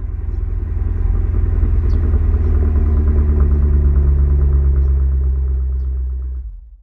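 A car engine running with a deep, steady sound, building up over the first second and cut off abruptly near the end.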